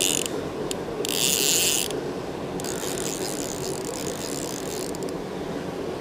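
Click-and-pawl fly reel buzzing in three spurts as line runs off or is wound in while a hooked rainbow trout is played: a short burst at the start, a second of about a second, then a longer run of about two and a half seconds.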